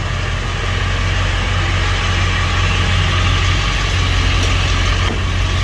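A Ford F350's 7.3-litre Powerstroke turbo-diesel V8 idling steadily.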